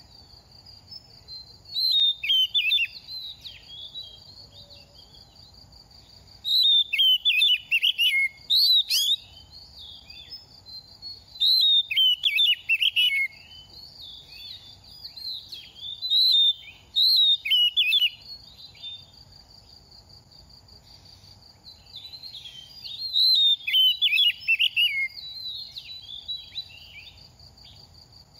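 Oriental magpie-robin singing in five bursts of quick, varied whistled phrases with short pauses between them, a young bird singing while in moult. A steady high thin tone runs underneath.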